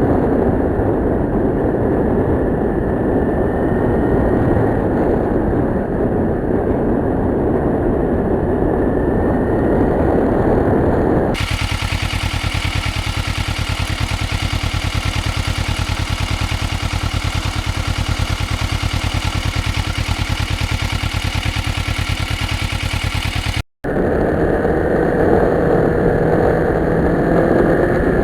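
Kawasaki Ninja 650R's parallel-twin engine running steadily at road speed, at first buried under heavy wind rush. About eleven seconds in the sound switches abruptly to a clearer, evenly pulsing engine note; near the end it cuts out for a moment and the wind-heavy riding sound returns.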